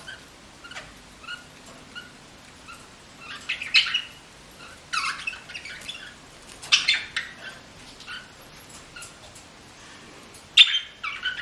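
A sick pet bird squeaking and gagging up mucus: soft short squeaks about once a second, broken by four louder, harsh rasping bursts.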